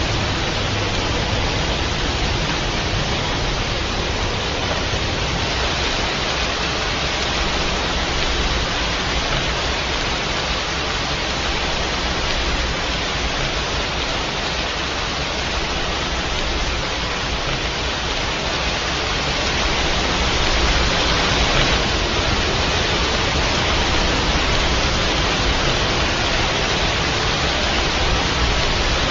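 Steady rain, an even hiss without distinct drops, swelling slightly about two-thirds of the way through.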